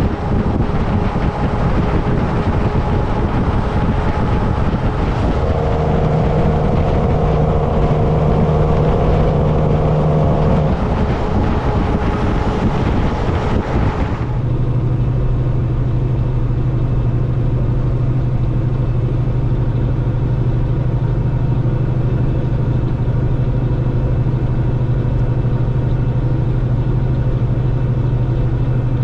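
Semi truck on the road, with tyre, wind and engine noise. About halfway through, the rushing noise drops away suddenly, leaving a steady low engine hum.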